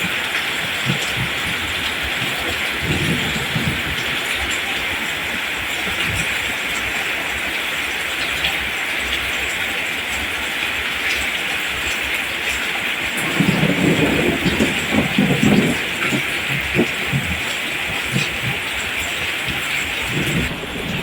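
Steady rain falling on rice plants, an even hiss of drops with no break. A few low rumbles rise under it, the strongest a little past the middle.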